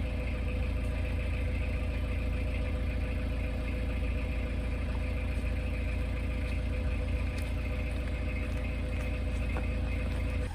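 Narrowboat's diesel engine running steadily at cruising speed, with an even low throb. Something is still caught around the propeller.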